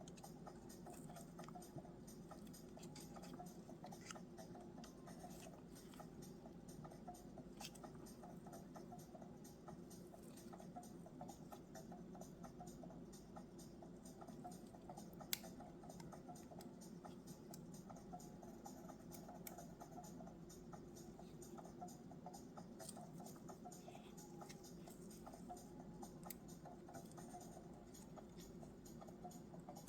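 Near silence: a steady low room hum with scattered faint ticks, and one sharper click about halfway through.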